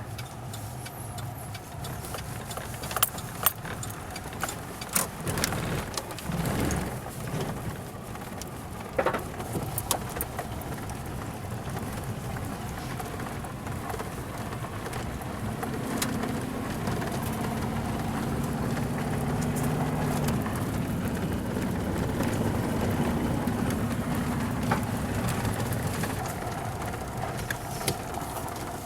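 A vehicle driving, heard from inside: a steady engine and road hum, with scattered rattles and knocks throughout. The engine tone grows a little stronger about halfway through, then eases off near the end.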